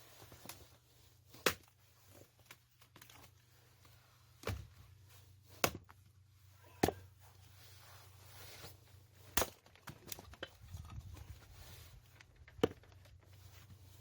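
Firewood being split by hand: about six sharp chopping strikes at uneven intervals, with lighter knocks between them.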